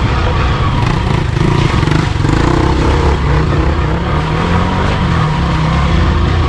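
Motorcycle engine running steadily while riding, its note rising a little about four to five seconds in.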